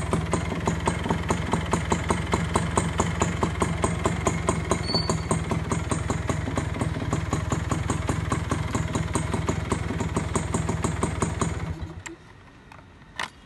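The 1989 Honda H100S's single-cylinder four-stroke engine idling with an even, steady beat, then stopping abruptly near the end. A single short click follows shortly after.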